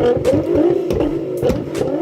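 Performance car engine revving hard, its pitch wavering up and down, with sharp bangs repeating about four times a second.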